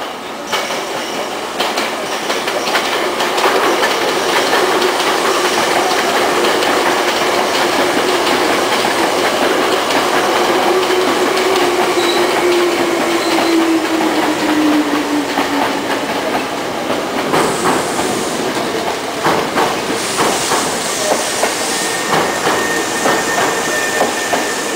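Hankyu electric train pulling in on the adjacent track, running loudly with a motor whine that falls in pitch as it slows, then wheels clacking over rail joints and points for the last several seconds.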